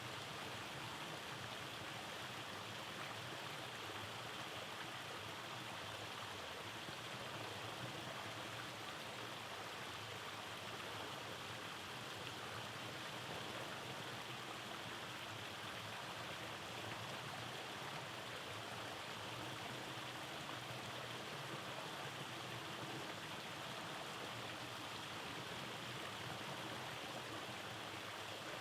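Rainforest stream running over small cascades: a steady, even rush of flowing water.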